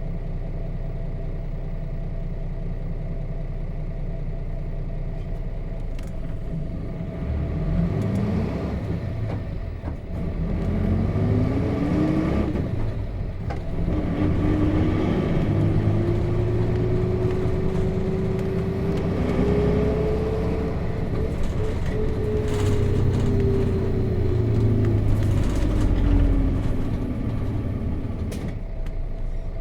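Nissan Diesel KC-RM211GSN bus's FE6 six-cylinder diesel idling, then pulling away through the five-speed manual gearbox: the engine note rises, drops twice at gear changes, climbs for several seconds, then falls away and settles back toward idle near the end. Heard from inside the bus.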